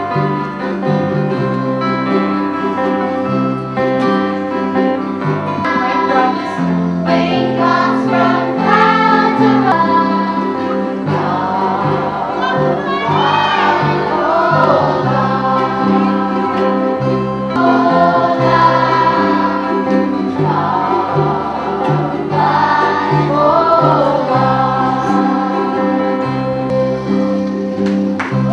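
A children's choir singing a song over a keyboard accompaniment with a stepping bass line; the voices come in about six seconds in.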